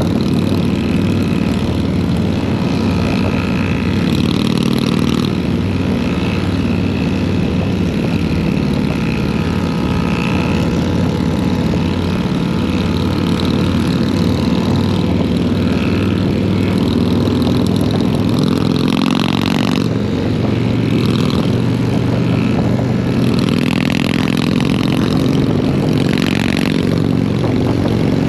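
Harley-Davidson Road King Special's V-twin engine running steadily under way on the road.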